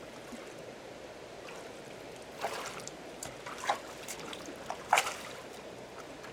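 Water trickling steadily, with a few short, sharp sounds over it, the loudest about five seconds in.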